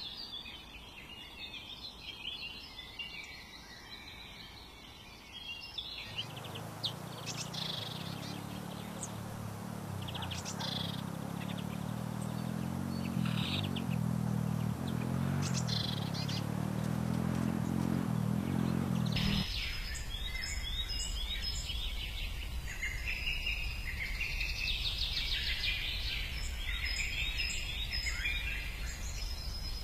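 Small birds chirping and twittering in quick, overlapping calls. From about six to nineteen seconds in, the chirps thin out over a low, steady hum, and they switch abruptly back to busy chirping afterwards.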